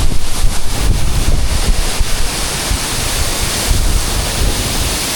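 Waterfall rushing loudly close by, a steady roar of falling water, with wind and spray buffeting the microphone in gusts, heaviest in the first couple of seconds.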